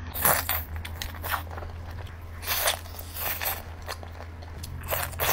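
Close-miked biting and chewing of grilled lobster meat: irregular crackly, smacking mouth noises a few times a second, over a steady low hum.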